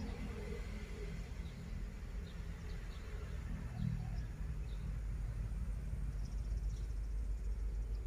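Short, faint bird chirps repeating every half second or so over a low, steady rumble, with a brief high rapid buzzing trill a little after the middle.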